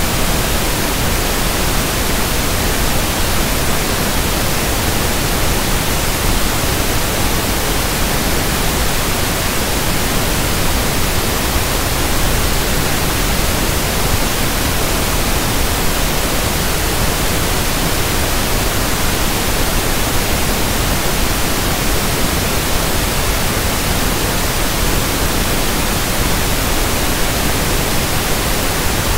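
Steady synthetic pink noise (1/f noise): an even, unchanging hiss spread across the whole range from low rumble to high hiss.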